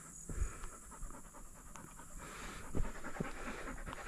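A dog panting hard and fast, with two low thumps, about half a second in and near three seconds.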